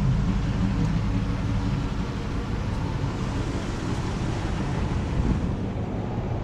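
Car or truck driving: a steady engine hum and road noise, easing slightly after about two seconds.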